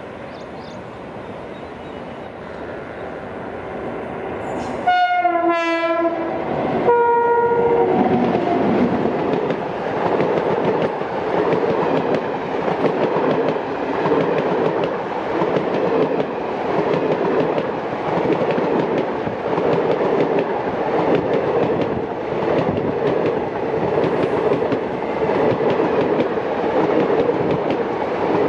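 Indian Railways WAP-7 electric locomotive approaching with a rising rumble, then sounding its horn twice, a longer blast about five seconds in and a short one about two seconds later. Its train of passenger coaches then rolls past in a steady rumble and clatter of wheels on the rails.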